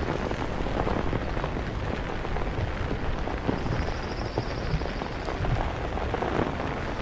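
Steady rain falling, with many small irregular drop impacts.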